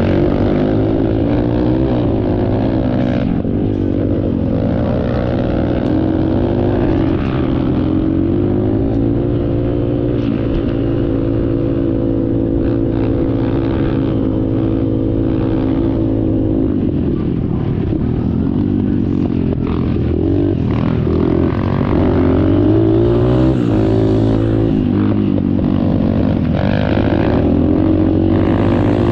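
Dirt bike engine running under way, its pitch rising and falling as the throttle opens and closes, with a few dips in engine speed.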